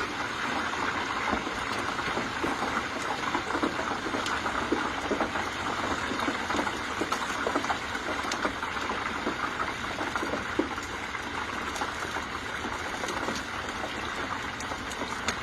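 A whole turkey deep-frying in peanut oil at 350 degrees: the oil bubbles and sizzles steadily, with many small crackling pops as moisture from the bird boils off as steam.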